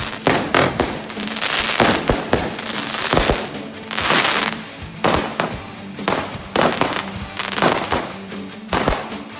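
Fireworks going off in quick succession: many sharp bangs at irregular intervals, several a second, with crackle between them and music underneath.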